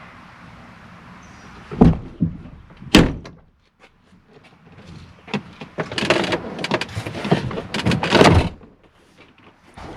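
2009 Chevrolet Silverado pickup door being worked: two sharp clunks about two and three seconds in, then a few seconds of rapid rattling and clunking of the door and its latch hardware. The newly installed interior door handle still does not open the door.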